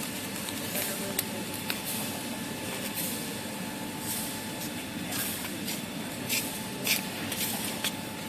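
A glue-lamination kitchen towel paper making machine running steadily, with short hisses and sharp clicks now and then.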